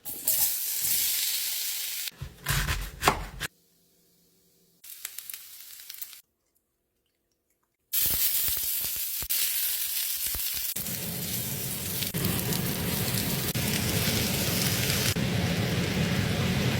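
Stir-fry of vegan chick'n and cabbage sizzling in a hot pan, broken into short bursts with a loud clatter of stirring about two seconds in. A long continuous sizzle with small scraping clicks of stirring begins about halfway through.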